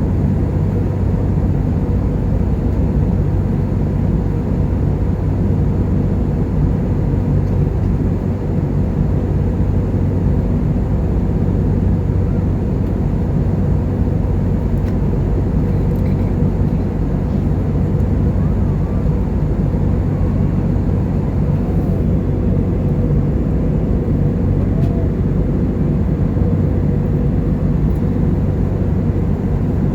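Steady drone of an airliner's engines and airflow heard inside the passenger cabin in flight, an even low rumble that holds the same level throughout.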